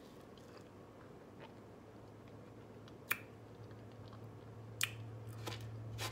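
Quiet chewing of a mouthful of creamy pie, with a few sharp clicks in the second half as a metal fork cuts into the slice on a plate. A low steady hum rises in the second half.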